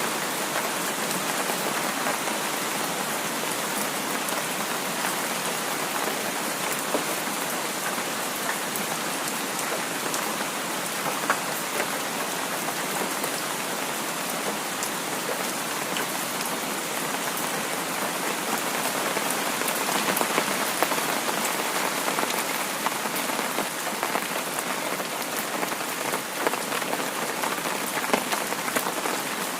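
Heavy rain falling steadily: a dense, even hiss speckled with many small drop impacts.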